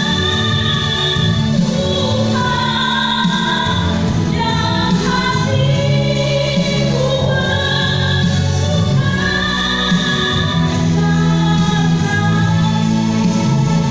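A woman singing a slow song over instrumental accompaniment, holding long notes that change pitch every second or two.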